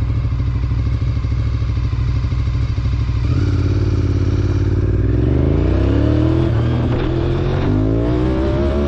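Motorcycle engine running steadily at first, then accelerating from about three seconds in, its pitch climbing and dropping back with each upshift, twice or three times.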